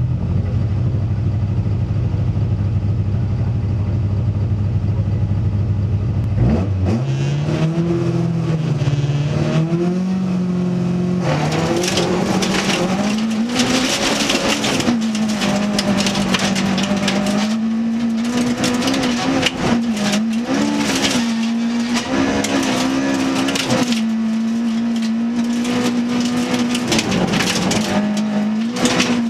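Toyota Corolla FX-GT rally car's engine heard from inside the cabin: a low, steady idle, then about six seconds in the revs climb as the car pulls away. From about eleven seconds it runs hard through the gears, its pitch rising and dropping at each shift, over loud tyre and gravel noise from the snowy road.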